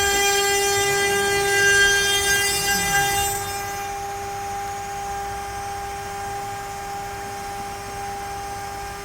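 CNC router spindle running with a steady high whine while the bit cuts pine, rich in overtones. About three and a half seconds in the sound drops and thins, with the spindle whine carrying on steadily.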